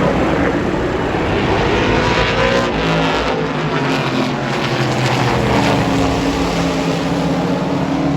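Several super truck race engines running on a short oval track, their pitch rising and falling as the trucks go by, with no gaps in the sound.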